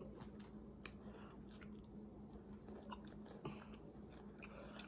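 Faint chewing of a fried chicken sandwich, with scattered soft crunchy clicks, over a faint steady low hum.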